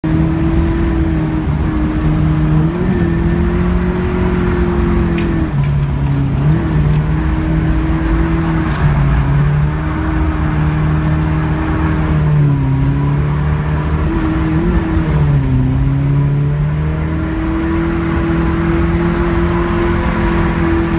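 Nissan S13 Silvia's SR20DE 2.0-litre four-cylinder engine under way on a winding road, its note rising and falling repeatedly as the throttle is worked, with short blips and drops in pitch around a few gear changes.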